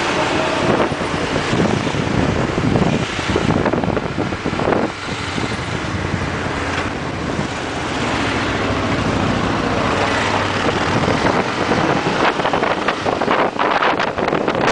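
Motorcycle on the move, its engine running steadily under heavy wind noise rushing over the microphone, with gusty buffeting near the end.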